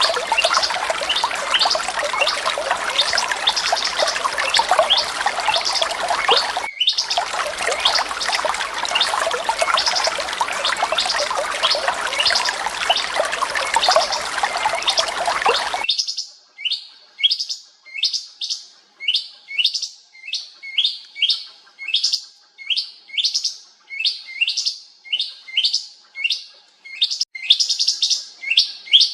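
Songbirds chirping. For the first half many chirps run together over a heavy hiss, with a brief dropout. Then an abrupt change to one bird's repeated sharp chirps, each sweeping quickly down in pitch, about two a second.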